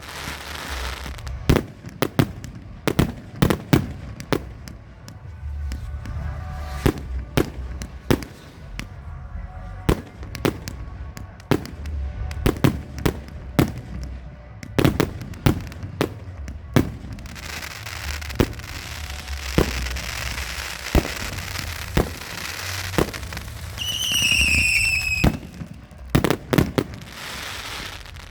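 A 200-shot firework cake firing a fast, uneven run of sharp launch pops and bursts. Dense crackling from crackling mines fills the second half, and a whistling shot falls in pitch near the end.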